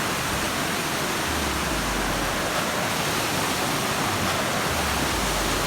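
Waterfall rushing: steady, even falling-water noise close by.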